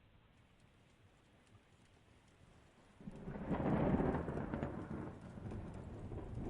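Thunder recording dubbed over the footage: faint hiss, then a sudden loud clap about three seconds in that rolls on into a long, lower rumble.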